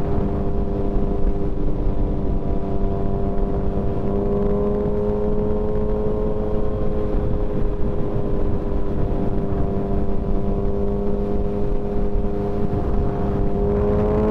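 Motorcycle engine running at a steady cruising speed, with a dense low rumble of wind and road noise. The engine's pitch edges up a little in the middle and climbs again near the end as it speeds up.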